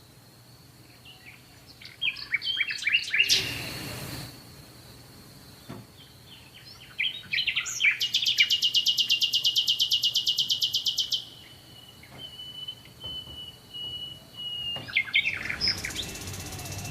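Small songbirds chirping in quick clusters, with a fast, even trill lasting about three seconds in the middle and a thin, steady whistle after it. A brief rush of noise comes about three seconds in.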